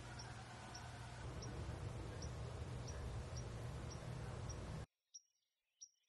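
A small bird gives short, high chip notes, about one and a half a second, over a steady rumbling background noise. About five seconds in, the rumble cuts off suddenly and the chips carry on alone.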